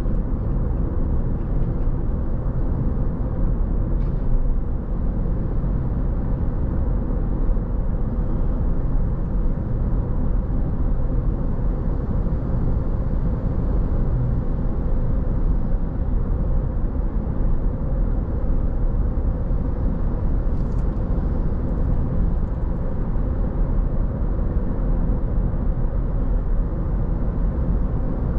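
Car driving along at a steady pace: a continuous low rumble of road and engine noise that holds even throughout.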